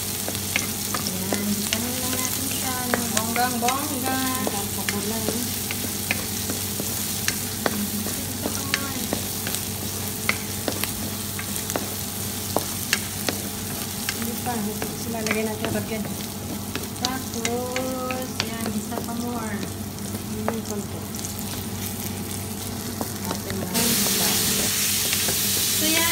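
Minced onion, garlic and ginger sizzling in oil in a nonstick pan, stirred with a wooden spatula that clicks and scrapes against the pan. The sizzle jumps suddenly louder near the end.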